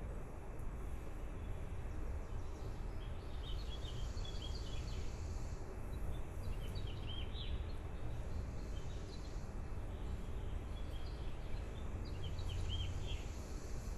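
Baby birds chirping in several short bursts of quick, high peeps, over a steady low rumble.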